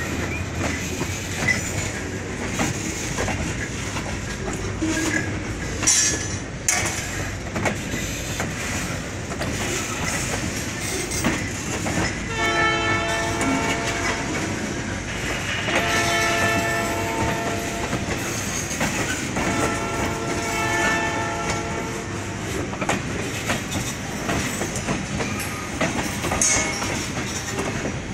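A train running on the rails with steady rumble and wheel clatter. Around the middle, the locomotive's air horn sounds three long chord blasts, each about two seconds, with short gaps between them.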